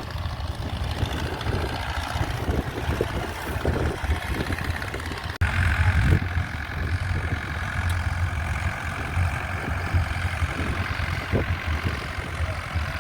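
Vintage tractor engines running as the tractors move off round the showground, with a sudden step up in level about five seconds in.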